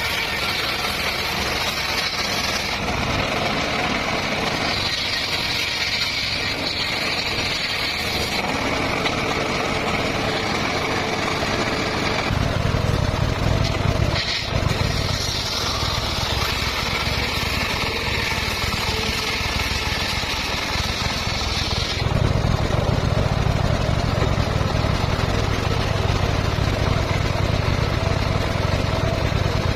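Engine-driven circular saw running steadily while sawing petung bamboo. The sound grows heavier and a little louder about twelve seconds in and again about twenty-two seconds in.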